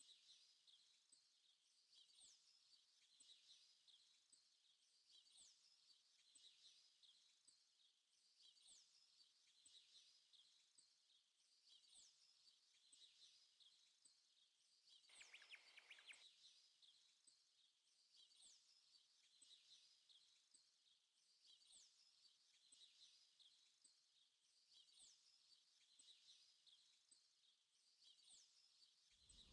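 Near silence with faint, repeated high bird chirps and one brief faint noise about halfway through.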